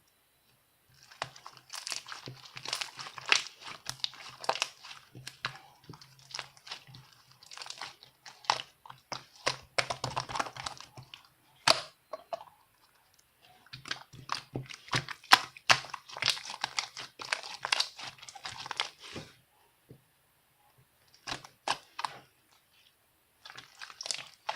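Crinkly material being crumpled and handled, in dense crackling stretches broken by short pauses.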